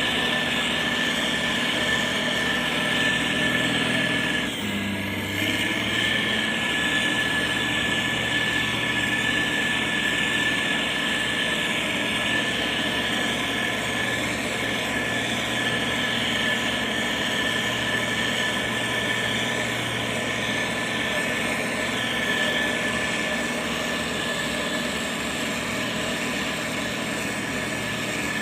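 Diesel engine of a motor grader running steadily, its note shifting briefly about five seconds in.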